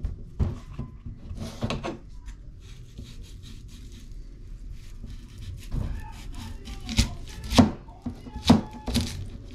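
Kitchen knife chopping vegetables on a wooden cutting board: a few separate, irregular strikes, the loudest of them near the end.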